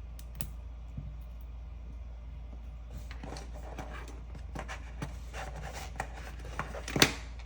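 Plastic Lego bricks being handled and pressed together: scattered small clicks and rattles, sparse at first and busier in the second half, with one sharp snap near the end. A steady low hum sits underneath.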